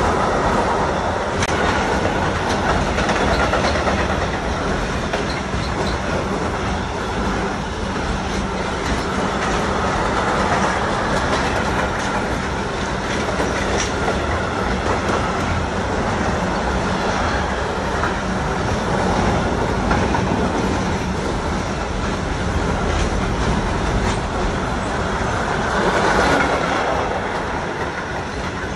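Container freight train passing close by behind an electric locomotive: steady noise of its wheels and wagons rolling over the track.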